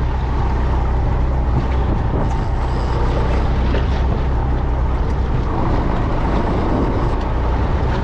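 Fishing boat's engine running steadily, a constant low hum under wind and water noise.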